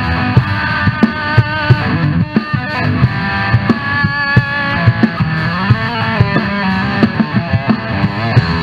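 Instrumental hard rock: a lead electric guitar plays a solo with bending, gliding notes over drums.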